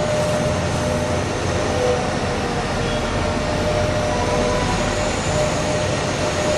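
Steady, loud mechanical whirring and rushing noise with a faint steady whine, switched on and off abruptly, like a vehicle or motor running.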